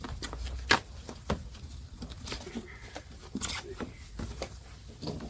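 Irregular rustling and scraping with a few sharp clicks and knocks: a package being handled and opened by hand.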